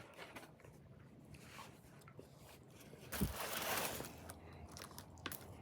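Faint clicks and handling noises, then a short crunching rustle lasting about a second, starting about three seconds in.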